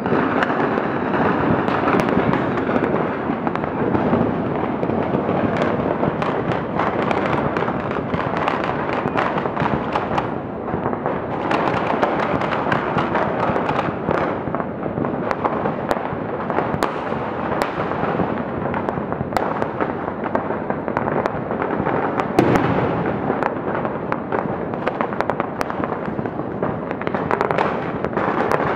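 Fireworks display: a continuous wash of many shells bursting, with frequent sharp cracks throughout and one louder bang about two-thirds of the way through.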